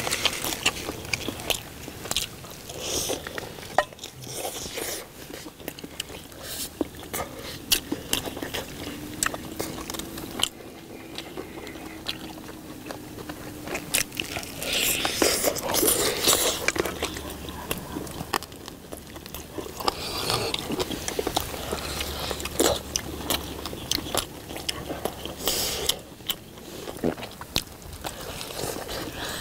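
Close-up eating sounds: several people biting and chewing braised spicy chicken and rice, with wet mouth sounds and many short, sharp clicks scattered throughout.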